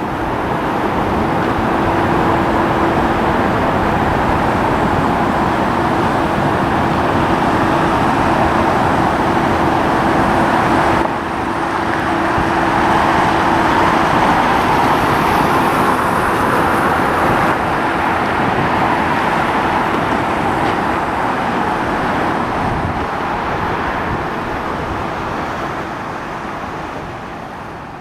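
Jet engines of a large Antonov cargo plane running, a loud steady noise with a steady hum through the first half, fading away over the last few seconds.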